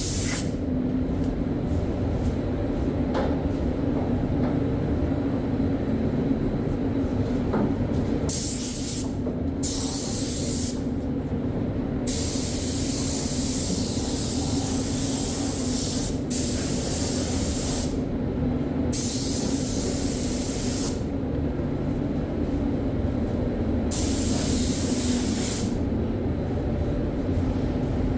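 Spray gun spraying primer in about six separate pulls of hissing air, each lasting one to four seconds, over a steady low machine hum.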